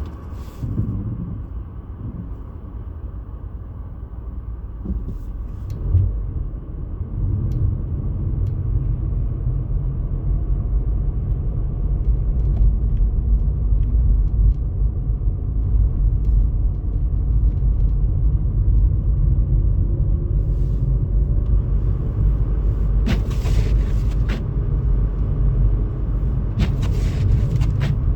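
Steady low rumble of a vehicle in motion, growing louder about seven seconds in, with two short hissing sounds near the end.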